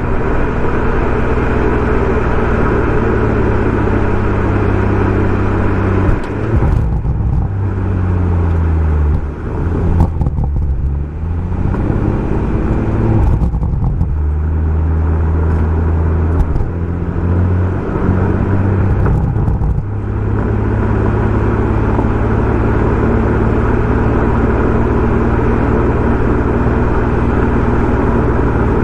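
BMW M140i's turbocharged straight-six running through a Remus aftermarket exhaust, holding a steady note under way. Through the middle the revs repeatedly drop and climb again, as with gear changes and lifting off the throttle, before it settles back to a steady drone.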